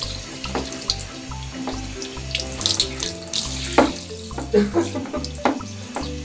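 Handheld shower head spraying water over a wet cat's fur and splashing into a shower tray, with several sharper splashes in the second half.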